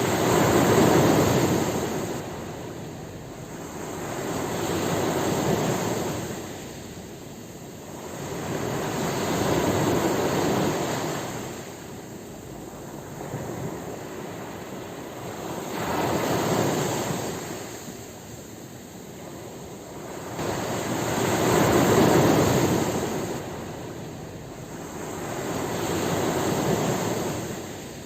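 Ocean waves breaking and washing on a shore: about six surges of surf noise, each rising and falling away over a few seconds, coming roughly every five seconds.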